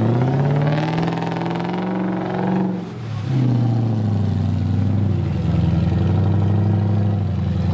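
Off-road competition 4x4's engine revving: the revs climb for nearly three seconds, drop sharply, then ease down and hold at a steady pace.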